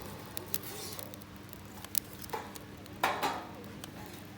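Campfire of dry cedar twigs crackling, with sharp pops now and then and a louder burst of crackles about three seconds in.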